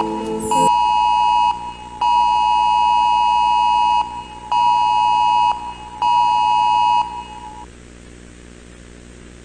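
Electronic alert tone beeping at one steady pitch in four beeps of uneven length, one of them about twice as long as the others. The beeps stop about seven seconds in, leaving a faint steady hiss of static.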